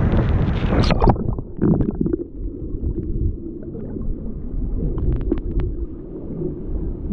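Waterfall rushing loudly. About a second in the sound turns muffled, a low rumble with gurgles and a few knocks.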